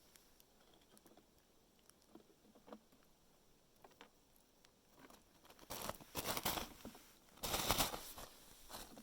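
Red squirrel nibbling peanuts: faint scattered clicks of teeth on shell, then two louder crackling bursts about six and seven and a half seconds in.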